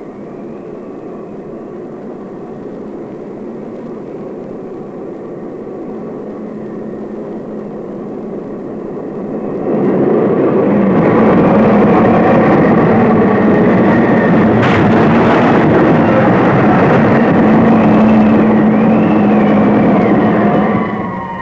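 Loud, steady roar of rushing wind with faint held tones under it, growing louder about ten seconds in.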